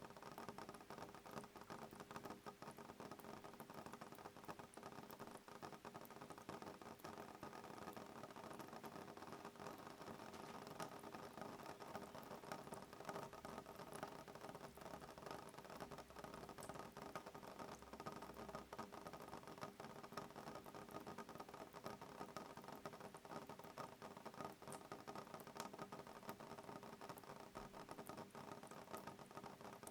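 Soft, steady rain pattering on a window pane: a dense, even sprinkle of small drop ticks with no thunder.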